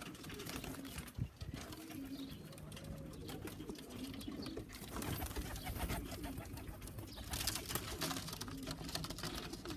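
Young racing pigeons cooing, short low coos repeated again and again over scattered rustling and clicks.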